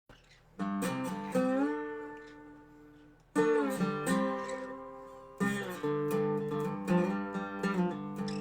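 Dobro resonator guitar played with a slide in a bluesy style: plucked notes slide up into pitch and ring out. Phrases start about half a second in, again near three and a half and five and a half seconds, and quicker notes follow near the end.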